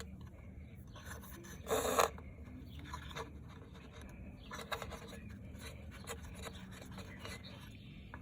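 Rubbing and scraping as a new starter rope is fed into the recoil starter pulley of a Mercury 25 hp outboard, with scattered small clicks and one louder scrape about two seconds in.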